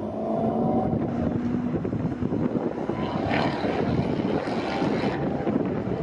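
Maserati GranTurismo's V8 engine running on track, its revs climbing about three seconds in, over heavy wind noise on the microphone.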